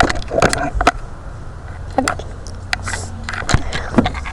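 A series of irregular sharp clicks and knocks over a steady low rumble.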